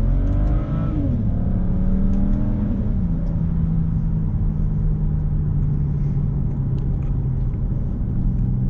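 BMW 5 Series' turbocharged straight-six heard from inside the cabin, pulling hard with its pitch climbing, then dropping as it shifts up about a second in and again about three seconds in. It then settles into a steady cruising drone over tyre and road noise.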